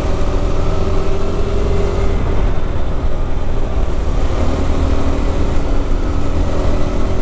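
KTM 390 Adventure's single-cylinder engine running under way, with heavy wind rumble on the microphone. The engine note is steady, then settles a little lower partway through.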